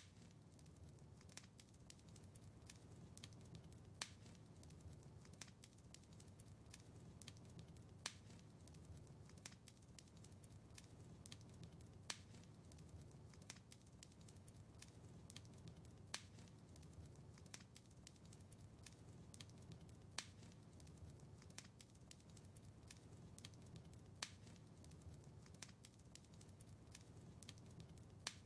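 Wood fire crackling softly: a steady scatter of small ticks and snaps over a low rumble, with a sharper pop about every four seconds.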